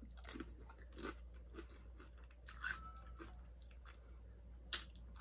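A person chewing a nacho chip loaded with cheese and toppings: crunching and wet mouth clicks, with one sharp, louder smack near the end.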